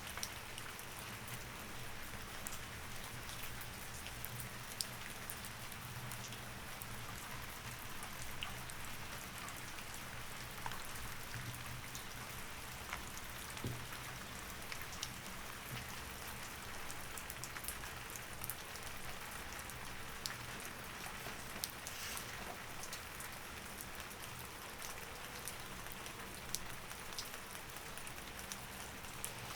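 Steady rain falling, with scattered sharp taps of single drops, over a low steady hum.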